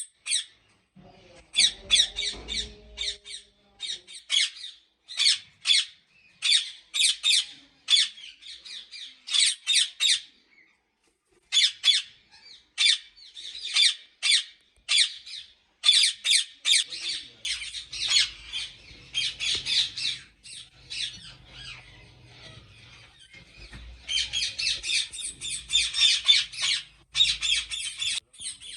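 Many ringneck parakeets squawking, short harsh calls in quick runs that thicken into a dense, nearly continuous chorus near the end.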